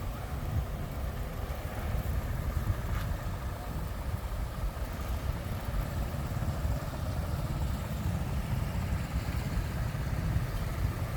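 Road traffic running past: a steady low rumble of vehicle engines and tyres.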